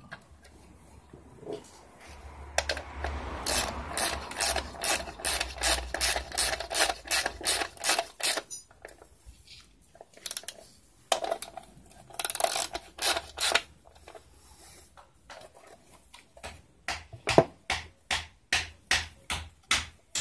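Ratcheting hand tool clicking in quick repeated strokes, about three to four clicks a second, in three runs with pauses between.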